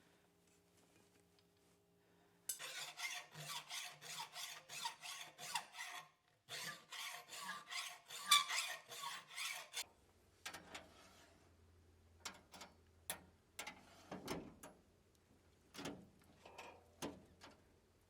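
Rhythmic back-and-forth scraping strokes on forged steel, about three a second, in two runs with a short pause between them; then scattered light clicks and taps.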